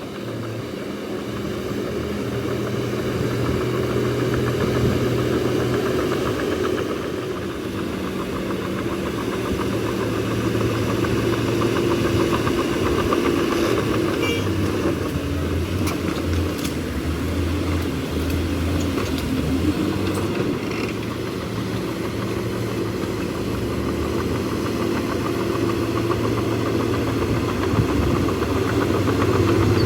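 Bulldozer's heavy diesel engine running steadily, its pitch dipping and rising a little partway through, with a few light knocks about halfway in.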